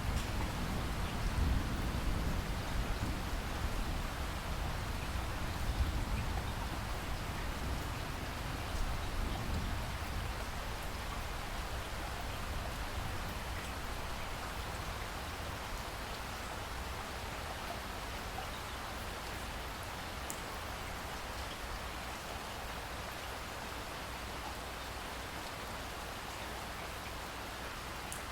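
Steady rain falling, with the low rumble of thunder dying away over the first ten seconds or so.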